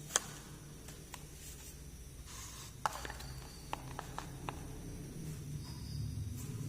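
Small plastic miniature toy pieces being handled: a sharp click just after the start, a short rustle a couple of seconds in, then a quick run of light clicks and taps about four seconds in.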